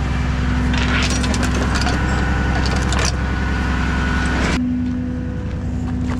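Rollback tow truck engine running steadily under a dense crackling and creaking noise, which cuts off suddenly about four and a half seconds in.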